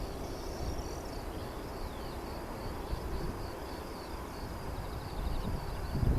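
Outdoor ambience: insects chirping steadily in a high, thin band with a low rumble underneath that swells briefly near the end.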